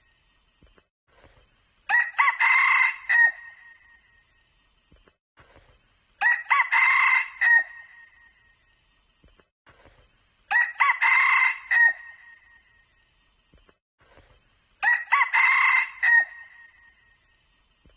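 Red junglefowl crowing: four short crows, evenly spaced about every four seconds.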